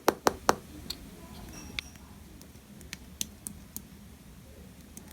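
Slime being handled and pressed, giving sharp clicks and pops: a quick run of loud clicks at the start, then scattered softer ones.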